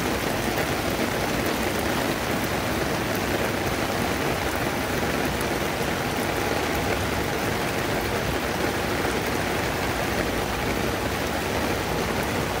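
Heavy rain falling steadily: an even, dense hiss of a downpour, with faint scattered ticks of drops hitting close by.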